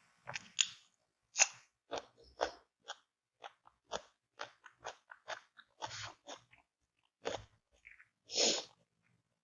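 Close-miked eating of smashed fried chicken (ayam geprek) with raw vegetables: crisp, irregular bites and chewing crunches, two or three a second, with a longer crunching sound near the end.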